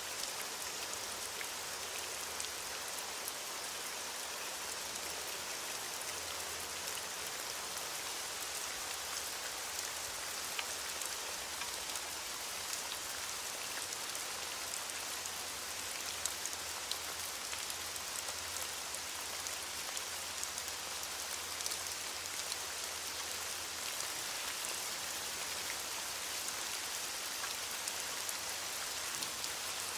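Steady heavy rain falling on surfaces, a continuous hiss dotted with many small drop ticks.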